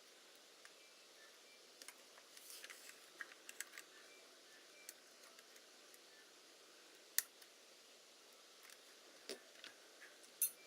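Faint scattered clicks and small taps, with a sharper click about seven seconds in and another near the end.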